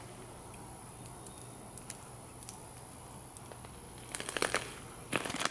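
Low room noise with a faint steady hum, broken by short rustling crackles about four seconds in and again near the end.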